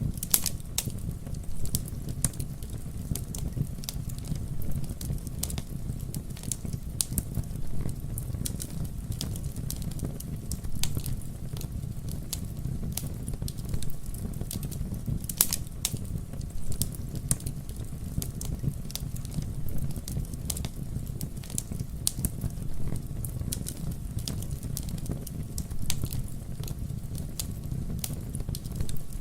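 Wood fire burning with a steady low rumble and irregular, frequent sharp crackles and pops.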